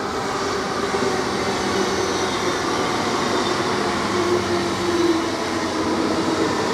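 DB class 424 S-Bahn electric multiple unit running close by, steady whining tones over a noisy wash of wheel and rail sound.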